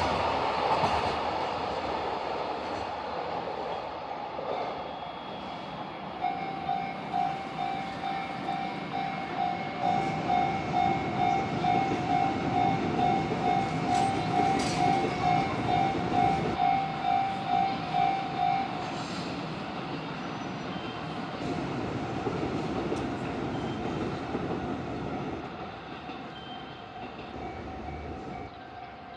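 Train noise on the rails fades as the train moves away, and a Japanese level-crossing warning bell rings with an electronic ding about twice a second. The bell is loudest from about six seconds in until about nineteen seconds in, then fainter.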